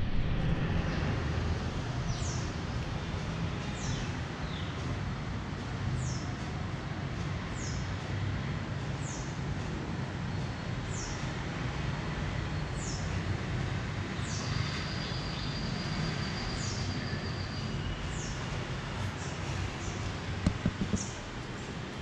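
Passenger train running along the track with a steady low rumble. High above it, short falling chirps repeat about every second or so, and a few sharp clicks come near the end.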